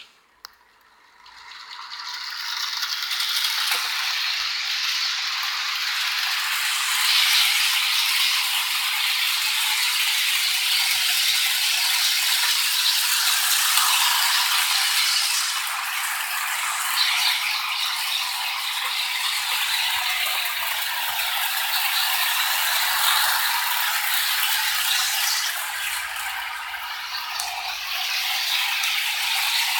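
Model Amtrak locomotive pulling a string of freight cars around the track, a steady mechanical rattle of wheels and cars that starts about a second in and builds up over the next couple of seconds.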